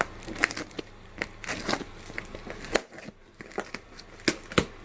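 Crackling, crinkling handling noise with scattered sharp clicks and knocks, as of a cardboard box and plastic packaging being handled to open it.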